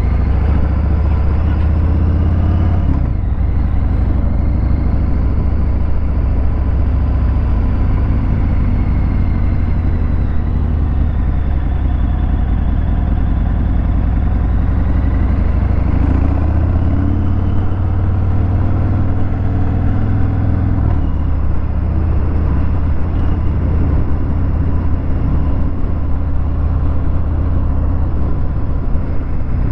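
Harley-Davidson Fat Bob 114's Milwaukee-Eight 114 V-twin running through a Vance & Hines Hi-Output 2-into-1 exhaust while riding, with a deep low rumble. Its pitch rises and falls with the throttle, drops sharply about three seconds in and climbs again around the middle.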